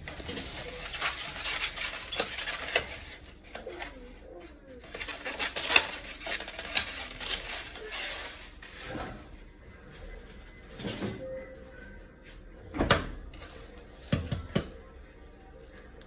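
A fork and kitchenware clinking and scraping against a mixing bowl, in busy runs of clatter and then a few separate sharp knocks near the end.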